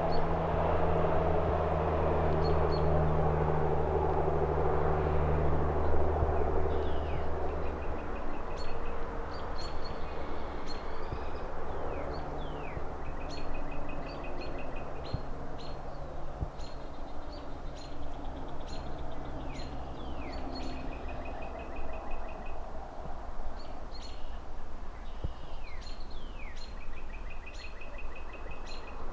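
Outdoor city ambience: a low engine drone from passing traffic fades away over the first several seconds over a steady distant traffic hum. From about seven seconds in, a songbird calls over and over with short high chips, downward slurs and quick buzzy trills.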